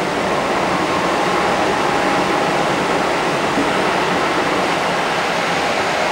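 Interior running noise of a Kintetsu 1230 series commuter car at speed: a steady roar of wheels on rail. A train passing close alongside the other way adds a loud, even rush.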